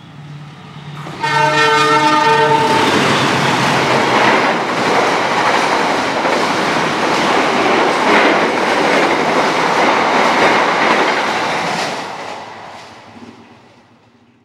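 CC 206 diesel-electric locomotive sounding one chord-like horn blast of about a second and a half, then the locomotive and its Argo Parahyangan passenger coaches passing close at speed with wheel-on-rail noise and clatter. The noise fades away over the last couple of seconds as the train recedes.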